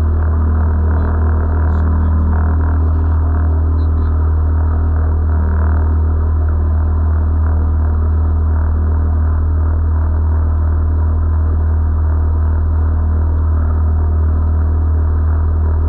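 A boat motor running steadily with a constant low hum.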